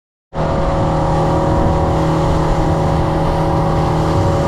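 Boat's outboard motor running steadily at speed, with the rush of wind and water over it; it cuts in suddenly just after the start.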